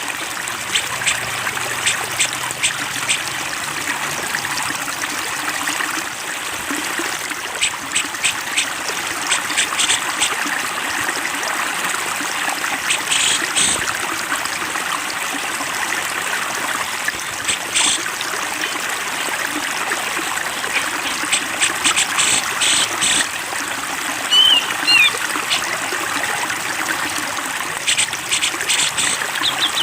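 Steadily flowing stream water, with repeated short bursts of rapid, high bird chirping and trilling every few seconds and a brief whistled call near the end.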